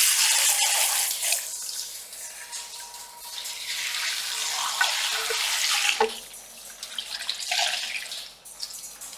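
Water running and splashing into a salon shampoo basin, coming in surges that swell and fade several times. A sharp click about six seconds in.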